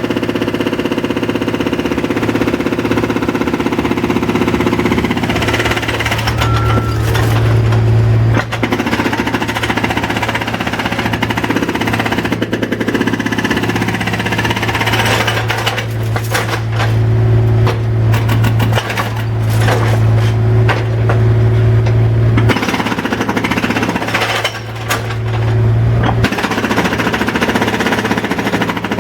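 Jackhammer-type powered breaker at a construction site hammering rapidly and continuously over a steady machine engine hum. The hammering starts a few seconds in, breaks off briefly about three-quarters of the way through, resumes, and stops near the end, leaving the engine hum.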